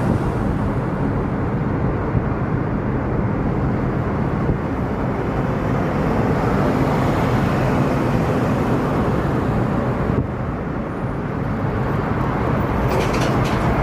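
Truck engines running and road noise from a line of slow-moving traffic, a steady rumble with a low engine hum.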